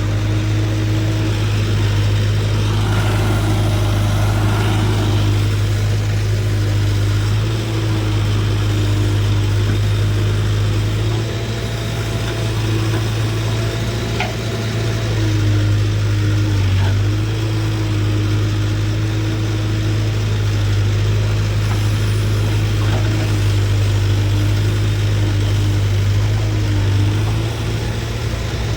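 Tractor diesel engine running steadily at an even pitch, with small rises and dips in speed.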